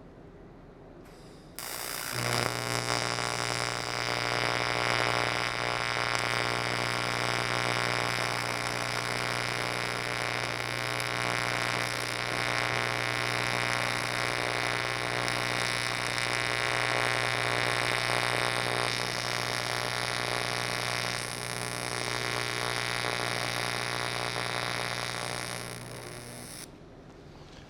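AC TIG welding arc on aluminum, buzzing steadily with a hum and hiss for about 25 seconds. It starts suddenly about two seconds in, dips briefly near the end and tapers before cutting off.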